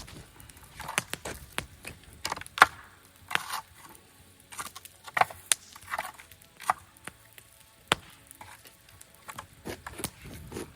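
Campfire burning wood, crackling with irregular sharp pops and snaps, the loudest about two and a half seconds in.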